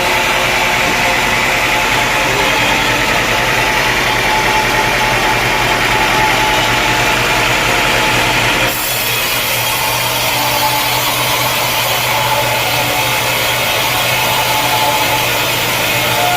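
Sawmill running: a powered saw cutting through a log over a steady engine drone. About nine seconds in, the sound changes suddenly and turns hissier.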